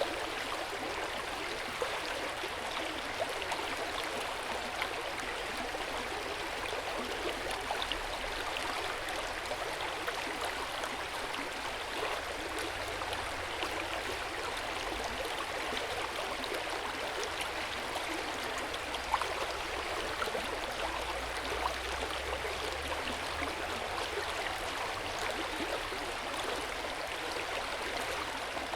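Hot-spring water flowing and splashing into an open-air onsen bath: a steady, even rush of water with small splashes now and then.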